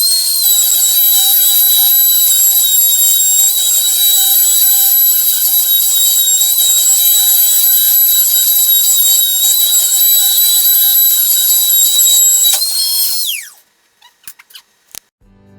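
High-speed spindle motor of a homemade CNC machine running with a steady high-pitched whine, then switched off about 13 seconds in and winding down in falling pitch. A few light clicks follow, and music starts at the very end.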